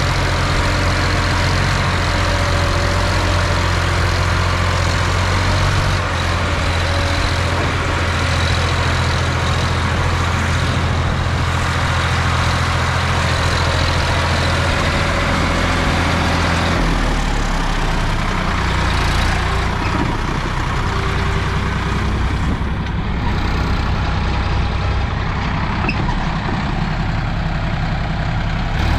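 Tractor diesel engine running steadily under load, pulling a fully loaded trolley; its low engine note changes about 17 seconds in.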